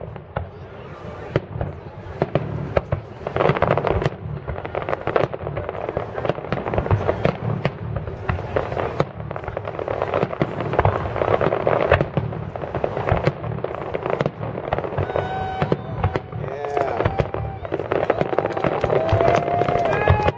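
Fireworks grand finale barrage: a dense, continuous run of bangs and crackling shell bursts with no let-up. Over the last few seconds, rising-and-falling whistles sound above the bursts.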